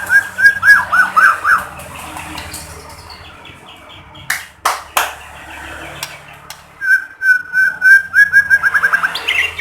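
White-rumped shama (murai batu) singing: two phrases of whistled notes, each speeding into a fast trill, one at the start and one about seven seconds in, with two sharp clicks in the quieter gap between them.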